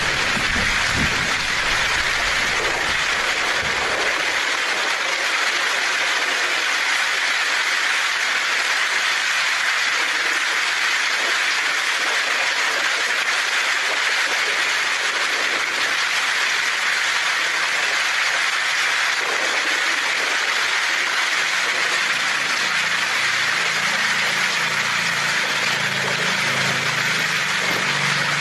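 Heavy rain falling on a tin roof, a loud steady hiss. A low thunder rumble dies away about four seconds in, and another low rumble starts near the end.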